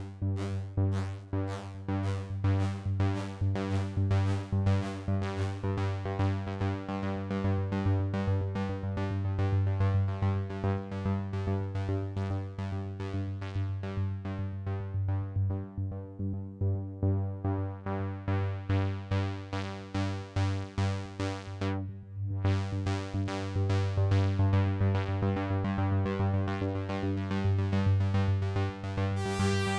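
Two 2-XM synthesizers jamming: a fast, single-note arpeggio pulses steadily over a sustained bass note. The tone darkens toward the middle, brightens abruptly about two-thirds of the way in, and a wavering high note joins near the end.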